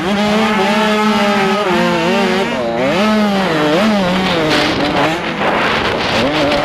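An 85cc two-stroke motocross bike engine revving up and down as the rider works the throttle, its pitch climbing and falling several times, with a sharp dip and quick climb about three seconds in. Towards the end a rushing noise covers the engine briefly.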